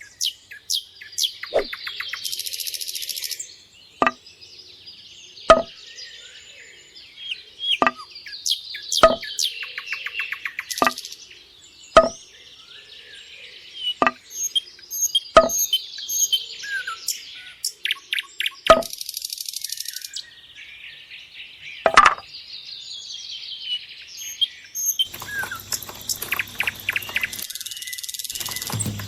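Birds chirping and trilling, with sharp single knocks every second or two, the loudest near the middle and about three quarters of the way through.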